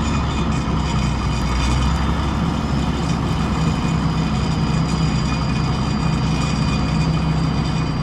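1977 Gleaner L2 combine running steadily under harvest, its engine and machinery giving a constant low hum with a thin, steady whine over it.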